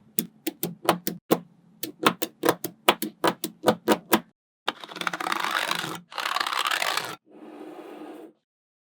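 Small neodymium magnet balls clicking as they snap onto one another, about four sharp clicks a second for the first four seconds. Then come two loud stretches of continuous rattling, each about a second long, and a fainter one.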